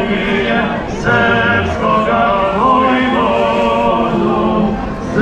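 A group of voices singing together in Serbian, holding long notes in a choir-like chant.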